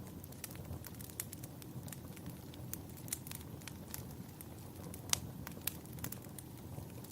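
Wood fire in a fireplace crackling, with irregular sharp pops over a low steady rumble; the loudest pop comes about five seconds in.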